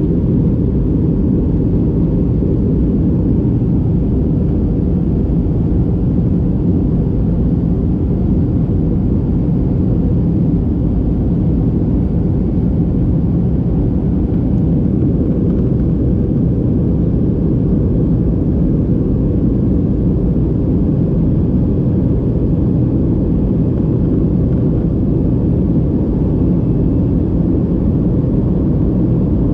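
Airliner cabin noise: a steady low rumble of the jet engines and airflow, unchanging throughout.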